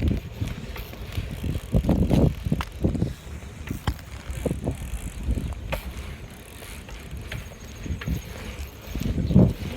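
A small bicycle being ridden, with uneven low rumbles and scattered clicks and rattles from the bike.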